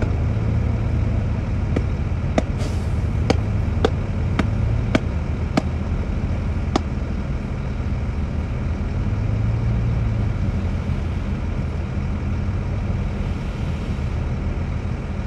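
Heavy diesel engine of earthmoving machinery running steadily, with several sharp knocks between about two and seven seconds in.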